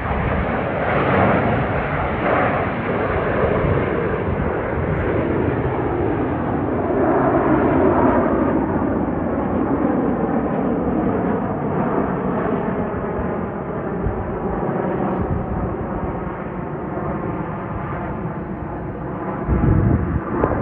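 Jet aircraft of the Frecce Tricolore display team, Aermacchi MB-339 trainers, passing with a loud, steady roar that eases slightly in the second half. A brief low thump comes near the end.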